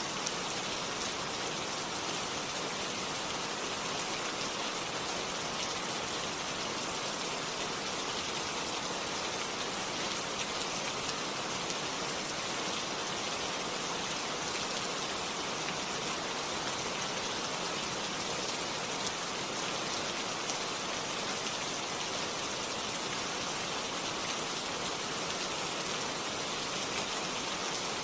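Steady rain falling, an even hiss of many drops without change or thunder.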